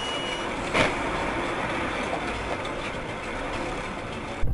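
Steady road and traffic noise from a moving car, with a short high beep at the start and a sharp click about a second in; near the end it switches abruptly to a louder, lower rumble.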